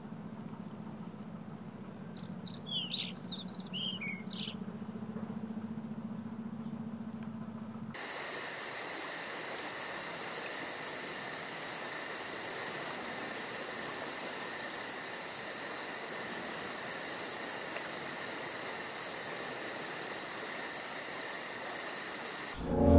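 A few birds chirping over a low steady hum. About 8 s in, the hum gives way to a steady, high-pitched drone with a fast even pulse, like insects at night.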